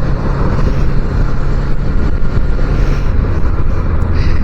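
Small Suzuki motorcycle engine running while riding, with its pitch dropping near the end.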